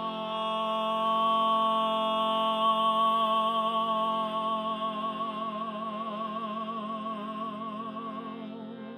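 A woman's voice holding one long sung note over a steady drone, even at first, then wavering with vibrato from about halfway, and fading near the end.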